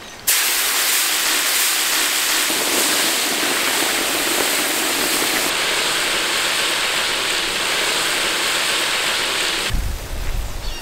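Peeled prawns dropped into hot oil, deep-frying with a loud, steady sizzle that starts the instant they hit the oil and cuts off near the end.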